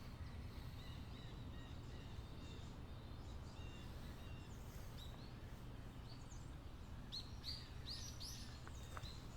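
Birds chirping with short, high calls, scattered at first and coming several together about seven to eight and a half seconds in, over a steady low background rumble.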